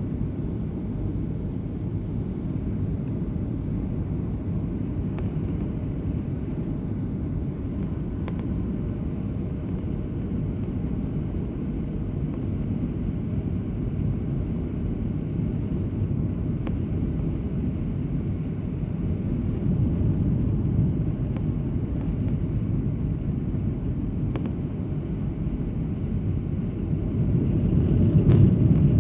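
Steady low rumble of a jet airliner's engines and airflow heard inside the cabin on final approach, with a few faint clicks, swelling louder near the end.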